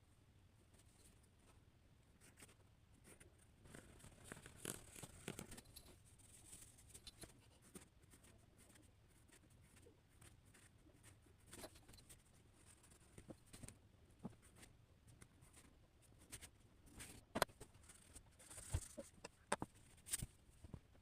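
Quiet, intermittent scratching strokes of a drawing tool on paper, with a few sharp taps and ticks toward the end.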